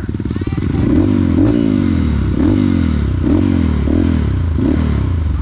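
Trail motorcycle engine revving in repeated throttle surges, about one a second, each rising then dropping away, as the bike struggles for traction climbing a slippery muddy track.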